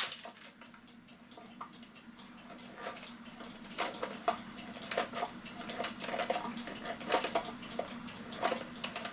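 Light, irregular clicks and rattles of a cuckoo clock's brass weight chain being fed over the sprocket in the movement. They grow busier about four seconds in, over a steady low hum.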